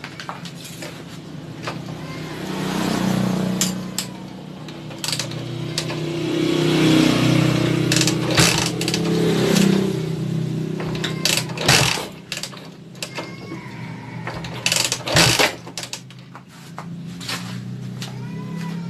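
Honda TMX 155 single-cylinder motorcycle engine running just after its valve clearances were adjusted to cure a rocker-arm tapping, revved up twice, with scattered sharp clicks.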